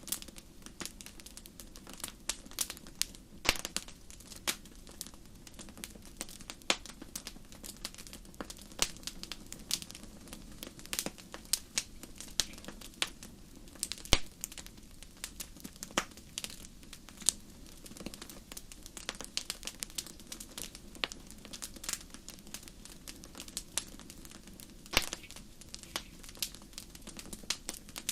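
Wood fire burning in a fireplace: irregular sharp crackles and pops over a steady low roar of the flames.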